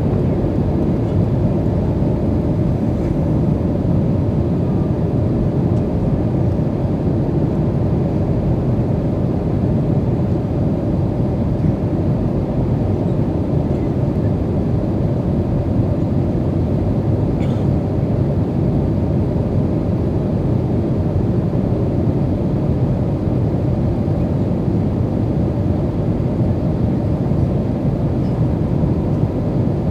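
Steady low rumble of cabin noise inside an Airbus A320 in flight, from its IAE engines and the airflow past the fuselage, holding an even level throughout.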